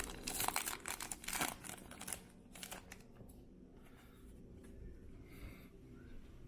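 Foil wrapper of a baseball card pack crinkling as it is handled and opened, in a dense run of crackles for about two seconds, then only faint rustling.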